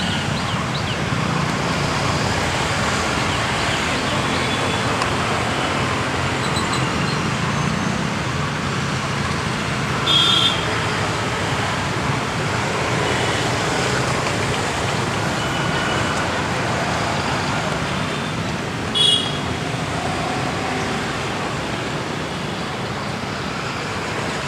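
Steady road traffic noise, with two brief sharp high-pitched sounds standing out about ten seconds in and again near nineteen seconds.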